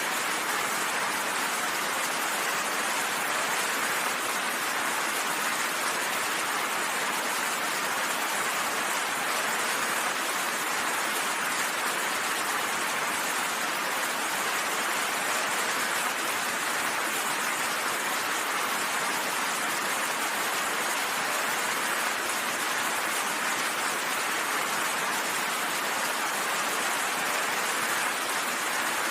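Steady rain: an even, unbroken hiss of rainfall with no thunder or other sounds standing out.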